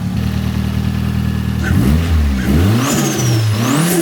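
Turbocharged Nissan SR20DET four-cylinder idling steadily, then revved twice about two seconds in, the pitch rising and falling with each blip, with a high turbo whistle following the revs. It is revving cleanly, no longer breaking up, now that the misfire has been fixed.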